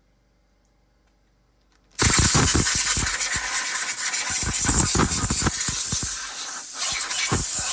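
Compressed air hissing hard from a blow gun, starting abruptly about two seconds in after near silence, with uneven low thumps from the gusts. It is drying off the freshly washed cylinder.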